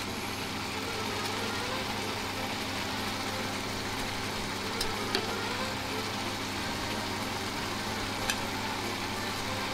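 Minced pork and vegetables sizzling steadily in a frying pan over a low steady hum. A few faint clicks come about five seconds in and near eight seconds as frozen ginger is shaved into the pan with a kitchen knife.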